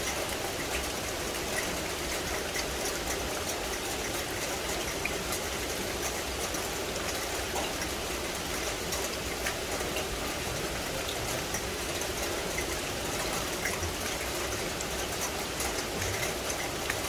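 Steady rain falling on forest vegetation, an even hiss with many small drops ticking.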